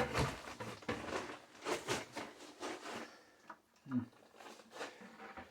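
Scattered light clicks, taps and scrapes of hands handling pipe and tools, irregular and fading after about three seconds, with a short low grunt or hum about four seconds in.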